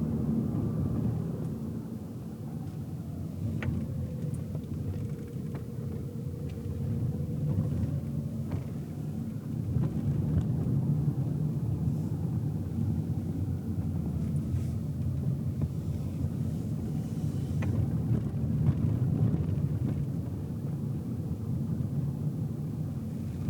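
Car cabin sound while driving: a steady low rumble of engine and road noise. The engine note dips and climbs again a few seconds in, with a few faint clicks and knocks.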